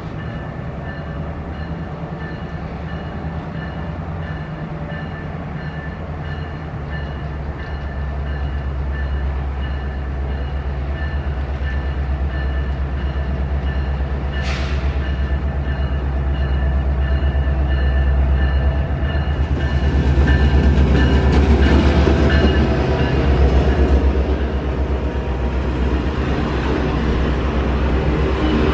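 A Canadian Pacific freight diesel locomotive approaches with its engine running in a deep rumble that grows steadily louder, and it passes close by about two-thirds of the way in. A faint, high, evenly repeating ringing sounds until then. After the locomotive passes, the rattle and clatter of the train cars' wheels on the rails is the loudest sound.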